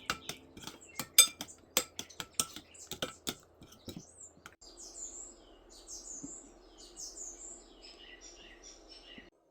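A rapid run of sharp clinks and taps for about four and a half seconds, then birds chirping over a faint steady hiss. The sound cuts off abruptly near the end.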